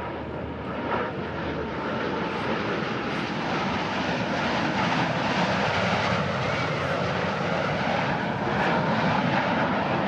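Jet noise from US Navy Blue Angels F/A-18 Hornets flying by, growing louder over the first few seconds and then holding steady.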